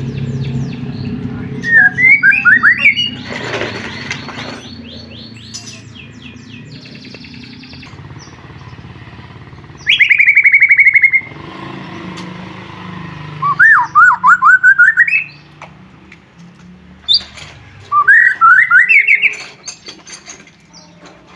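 White-rumped shama (murai batu) singing: loud phrases of rapid repeated notes that sweep upward, about five of them separated by pauses, over a low hum in the first few seconds.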